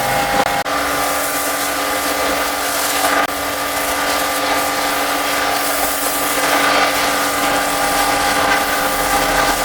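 High-pressure washer running and spraying: a steady motor-pump whine over the hiss of the water jet, the tone shifting slightly about half a second in.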